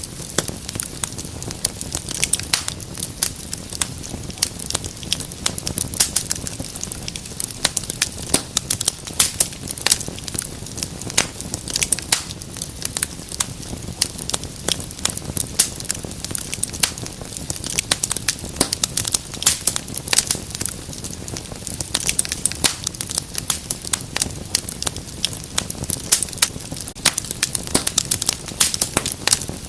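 Wood fire burning in a fireplace, crackling with many sharp, irregular pops and snaps over a steady low rumble of the flames.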